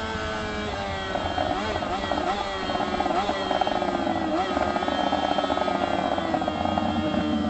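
Motorcycle engine running under way, its pitch dipping slightly about a second in and then holding steady, over a low wind rumble.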